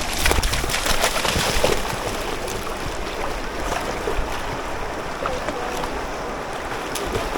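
River water rushing steadily, a little louder in the first two seconds.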